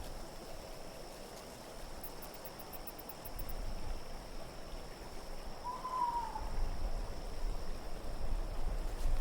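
Low wind rumbling and swelling, with a single owl hoot about six seconds in, one short call that rises slightly and falls away.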